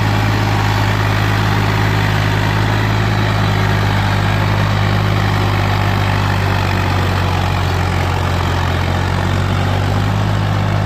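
Ghazi 65 hp tractor's diesel engine running at a steady, unchanging speed.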